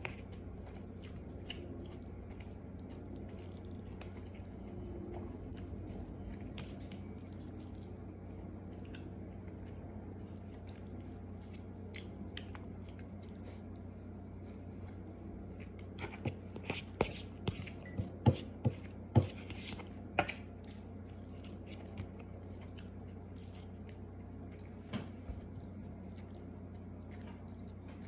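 Close-up mouth sounds of chewing tuyo (dried salted fish) and egg, with small wet clicks throughout. A run of sharp, louder clicks and crunches comes about sixteen to twenty seconds in. A steady low hum lies underneath.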